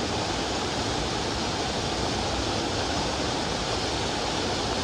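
Steady rushing of a mountain stream's water over rocks.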